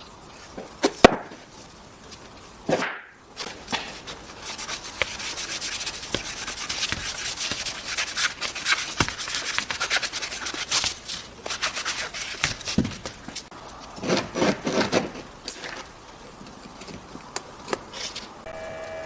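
Wood being sanded or rubbed by hand in quick rasping strokes through the middle of the stretch, with wooden knocks and clicks from handling the pieces near the start and about three quarters of the way through.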